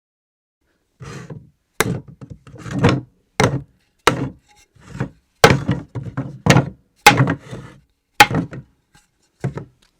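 Objects dropped onto a floor, one after another at irregular intervals: about a dozen thuds and knocks on wood, some bouncing or clattering briefly after landing.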